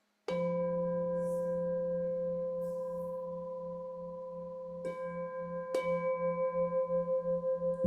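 A singing bowl struck and left to ring, its several steady tones wavering in a slow pulse as they fade. It is struck again lightly twice, near five seconds and about a second later, renewing the ring.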